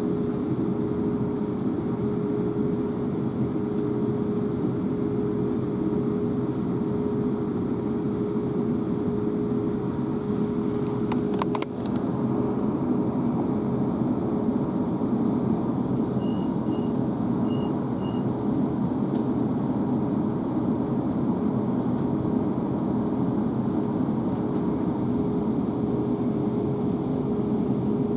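Inside a South Western Railway Class 444 electric multiple unit running along: a steady rumble of the wheels on the track with a constant hum. The hum drops out for a moment a little before halfway, where a sharp click is heard. A few faint short beeps come just past the middle.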